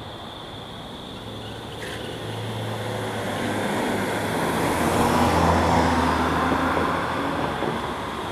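NJ Transit diesel train approaching and passing beneath: a low engine drone and rail noise build to a peak about five seconds in, then ease slightly.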